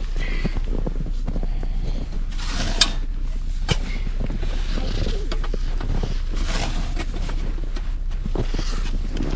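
Snow shovel digging and scraping into packed snow around a stuck truck's tyre: a run of short scraping strokes about every second or two, with a couple of sharp knocks, over a steady low rumble.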